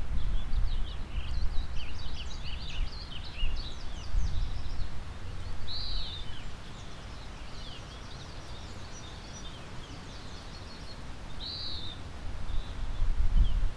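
Several songbirds singing and chirping in a spring forest, with two clear arched whistled notes about halfway and near the end. Under them is a low, gusty wind rumble that rises and falls, strongest early on and again near the end.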